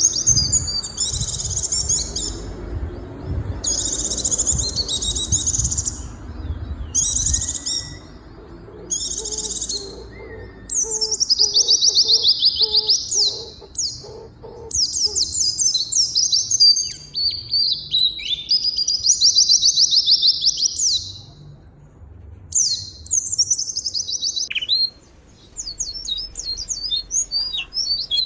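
Small birds chirping and twittering in quick, high-pitched phrases, one after another with short gaps between them. A low rumble runs under the first several seconds.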